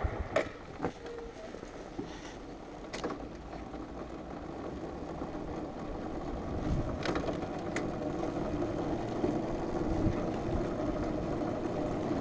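Faint steady outdoor background noise that slowly grows louder, with a few short sharp clicks.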